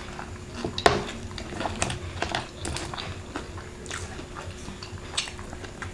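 Close-up crunching and chewing of deep-fried crispy chicken skin, a run of short crackly bites. About a second in there is a sharp knock as the dipping-sauce bowl is set down on the table.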